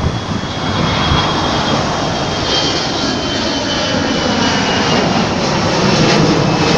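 Airbus A321 jet airliner taking off and climbing out: a loud, steady rush of jet engine noise with a high whine slowly falling in pitch, growing a little louder toward the end.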